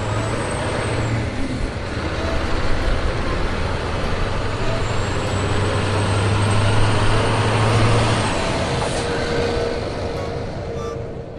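A truck's engine running with a steady rush of road noise and a low hum, swelling in the middle and easing off near the end.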